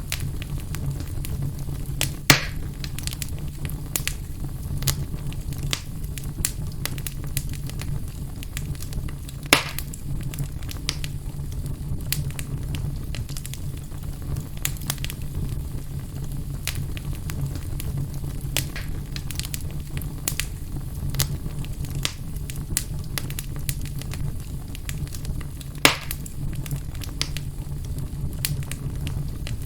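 Fire burning in a fireplace: a steady low rumble under constant crackling, with three louder pops, about two seconds in, near ten seconds, and near the end.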